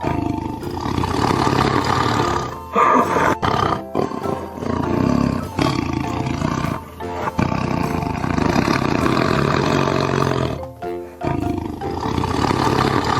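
Snow leopard calling in loud, rough big-cat vocalisations with short breaks, over background music.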